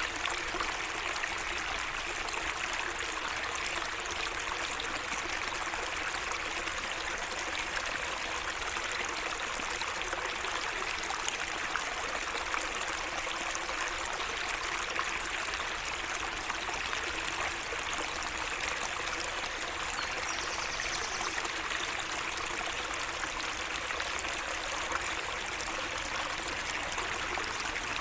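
Small garden stream running steadily, a constant trickle and splash of flowing water.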